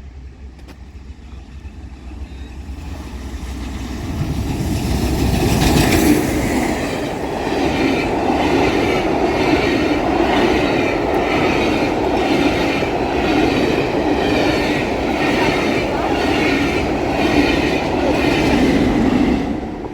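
Steam-hauled railtour train passing over a level crossing. It builds up over the first few seconds and is loudest about six seconds in, then its carriages' wheels clatter regularly, a little more than once a second, until it falls away near the end.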